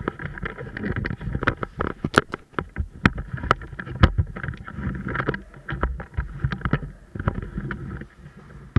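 Irregular sharp clicks and knocks over a continuous rustling noise, the kind made by a player moving and handling gear close to the microphone.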